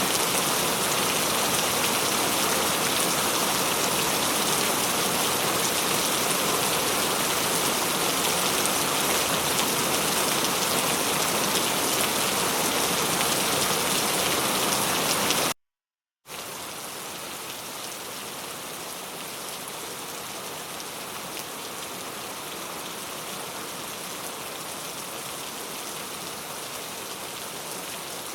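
Steady rainfall, a dense even hiss of drops on surfaces. About halfway through it cuts out to dead silence for under a second, then resumes noticeably quieter, as at a splice between two recordings.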